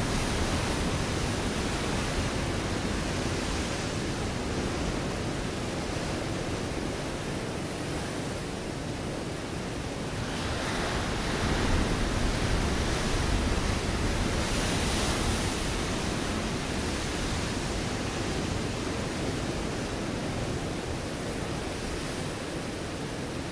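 Ocean waves breaking against a rocky shore, with a continuous rushing wash of surf. One wave swells up about ten seconds in, peaking near twelve seconds, and its hissing spray fades away over the following few seconds.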